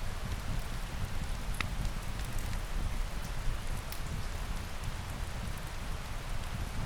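Steady rain falling, with a low rumble underneath and a few sharp clicks scattered through.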